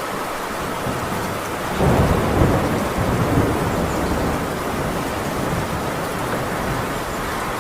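Heavy rain falling steadily on a tin roof, with a roll of thunder that breaks in about two seconds in, rumbles deeply for a second or two, then fades back under the rain.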